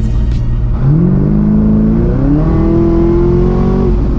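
2018 Camaro ZL1's supercharged V8 accelerating hard, heard from inside the cabin: the engine note climbs in pitch from about a second in and drops away shortly before the end.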